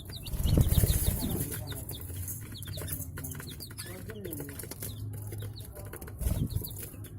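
Budgerigars chirping continually, many short high chirps overlapping. A louder low rustle comes about half a second in, and a shorter one near the end.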